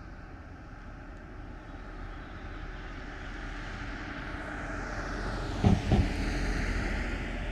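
A vehicle passing by on the street: its tyre and engine noise builds up steadily and is loudest about six seconds in. Near the peak come two low thumps in quick succession.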